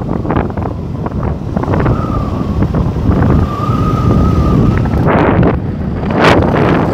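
Wind buffeting the microphone of a camera riding on a moving motorcycle, over a low rumble of the ride. A faint wavering whistle-like tone is held for about three seconds in the middle, and a short sharp noise comes near the end.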